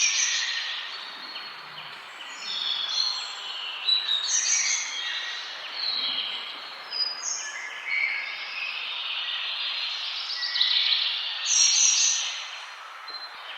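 Many forest birds singing and chirping at once, with short, overlapping chirps and trills, over a steady background hiss.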